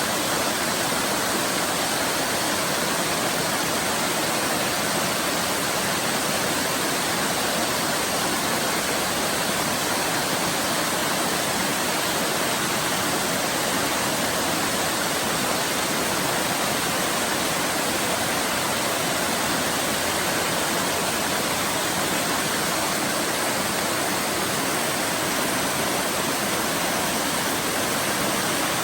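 Waterfall: water pouring and splashing in a steady, unbroken rush with no change in level.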